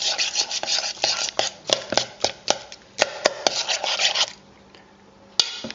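A utensil stirring a sticky spaghetti mixture in a bowl: quick scraping and clicking strokes, several a second, stopping about four seconds in, with one more click near the end.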